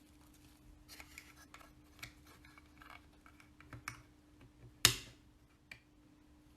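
Small hand-work noises on a scale model: light scrapes and clicks of small parts and tools, with one sharp, loud click about five seconds in and a smaller one shortly after, over a steady faint hum.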